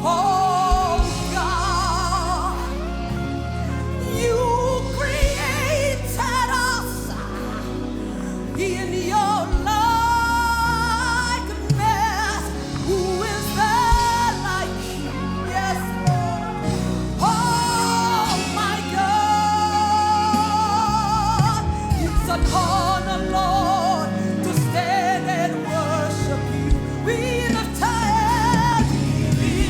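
Live gospel worship music: a singer with vibrato over sustained keyboard chords and bass, in a slow praise song.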